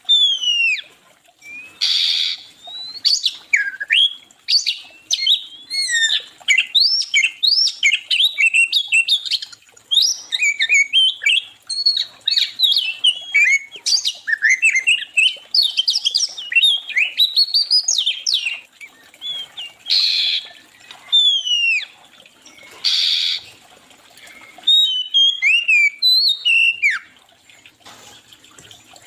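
Songbird singing a fast, varied run of whistled chirps that slide up and down in pitch, with three short harsh, hissy notes: one about two seconds in and two more near the end.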